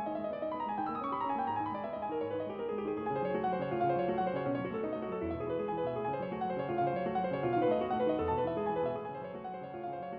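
Background piano music: a steady run of quick keyboard notes.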